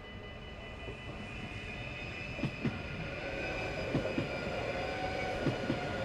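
NS Sprinter electric passenger train approaching and running over a level crossing, its rumble growing louder. A steady whine sets in about halfway, and the wheels clack over the rail joints in pairs, three pairs about a second and a half apart.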